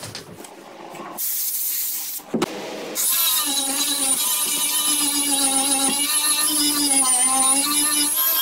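Handheld power grinder starting up about three seconds in after a couple of short hisses, then running steadily with a high whine that wavers slightly in pitch as it works the boat's fiberglass hull.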